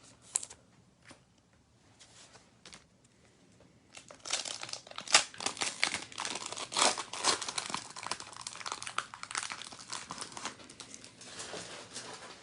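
A trading card pack wrapper being torn open and crinkled by hand, a dense crackle that starts about four seconds in after a few light clicks of cards being handled.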